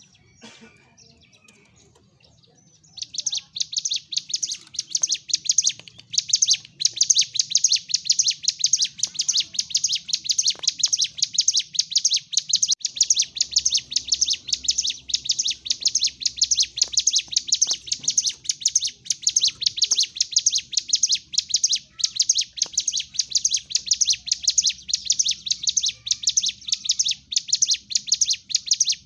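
Ciblek gunung (a prinia) calling in its excited fighting-mode chatter: after about three seconds of quiet, a rapid, unbroken run of sharp, high chirps starts and keeps going.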